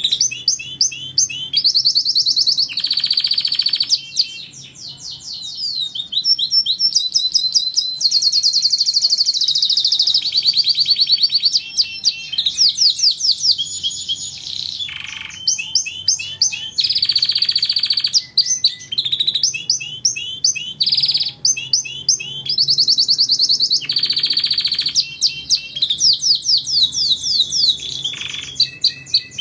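Canary singing a long, continuous song of rapid trills, buzzy rolls and sharp chips, high-pitched and varied, with barely a pause.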